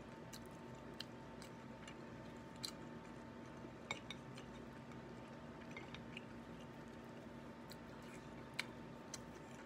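A person chewing food quietly between hand-fed bites, with a few faint mouth clicks and smacks scattered through, over a steady low hum.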